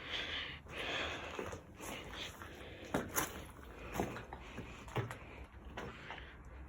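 Handling and movement noises inside a small room: three sharp knocks about a second apart, with soft breathy rustling before them.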